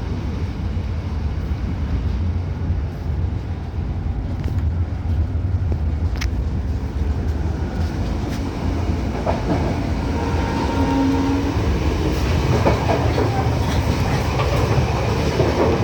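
Train running on the rails: a steady low rumble of wheels and carriage, with rattling and scattered clicks and knocks joining in the second half.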